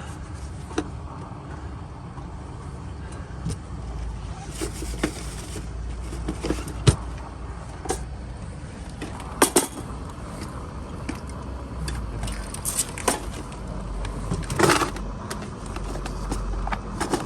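Steady low rumble of road traffic with scattered small clicks and clinks, the clinks thicker near the end.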